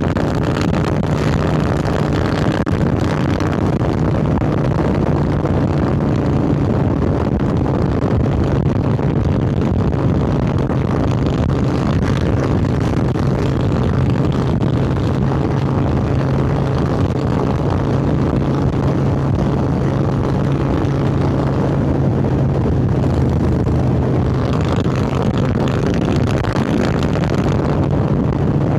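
2016 Harley-Davidson Sportster 1200 Roadster's air-cooled 1200 cc Evolution V-twin running through Vance & Hines Hi-Output Grenades 2-into-2 exhaust while riding, the engine note steady with small shifts in pitch and a brighter spell near the end.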